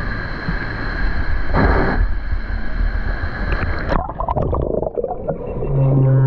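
Water and bubbling noise, dull and muffled, with the high end cutting off suddenly about four seconds in. Near the end a low, drawn-out animal call starts, played underwater by a sound exhibit that plays the sounds of different animals.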